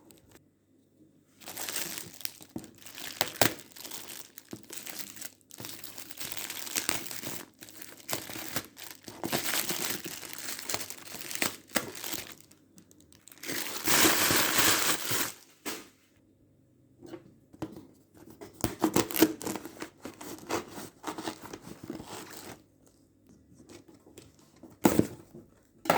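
Packaging being crinkled and torn open by hand, in irregular rustling stretches with short pauses; the longest, loudest tearing comes about midway.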